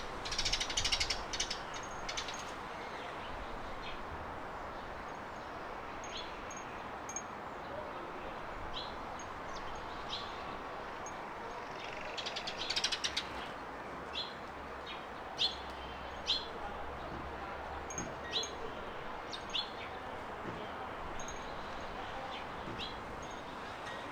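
Garden birds calling over a steady background hiss: short, high single chirps scattered through, and two quick rattling chatters, one at the very start and one about halfway through.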